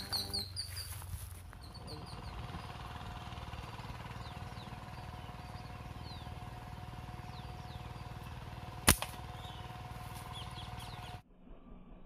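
Small birds chirping outdoors, a quick run of chirps at first and then scattered calls over a faint steady tone. A single sharp snap comes about nine seconds in, and near the end the sound cuts abruptly to a quieter, duller background.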